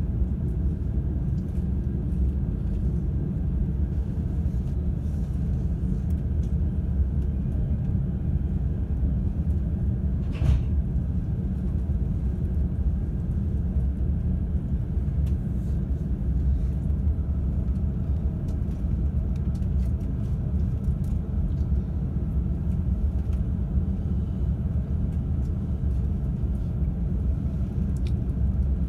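Steady low rumble of an E531 series electric train running, heard inside its bilevel Green car's upper deck. One short sharp knock stands out about ten seconds in.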